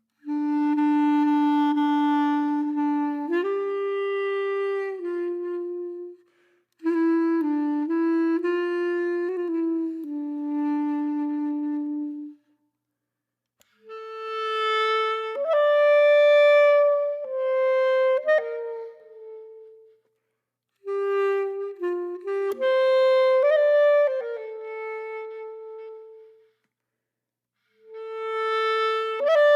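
Background music: a slow melody on a solo woodwind instrument, played in phrases with short silences between them.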